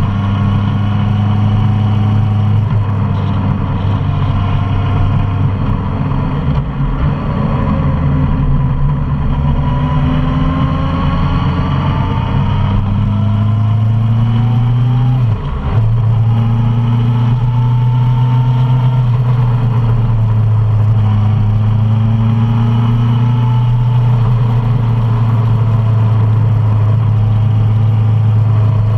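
Suzuki Bandit 650's inline-four engine running steadily under way, its note rising and falling gently with the throttle. The note dips for a moment about halfway through before picking up again.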